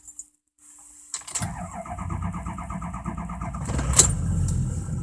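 Ford F-250 diesel cold-started after the glow plugs have cycled: the starter cranks with an even rhythm for about two and a half seconds, then the engine fires with a loud burst about four seconds in and settles into a steady idle.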